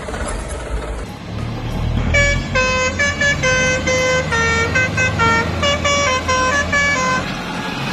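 Telolet horn playing a quick tune of short notes that jump up and down in pitch, starting about two seconds in and stopping about seven seconds in, over a low engine rumble.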